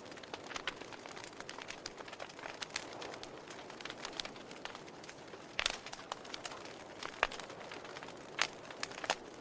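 Wood fire in a fireplace crackling: a soft steady hiss with irregular sharp pops and snaps, several louder pops in the second half.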